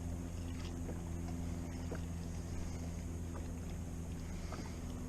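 Sea-Doo Fishpro personal watercraft engine idling with a steady low hum, with a few faint ticks scattered through it.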